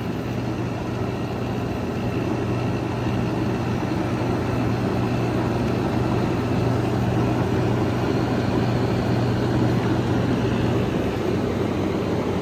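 Vintage GE Carry Cool window air conditioner running just after startup: a steady low compressor hum under the rush of its fan, slowly getting a little louder.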